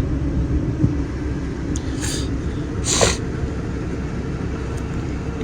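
Steady low rumble of a car running, with a short hiss about three seconds in.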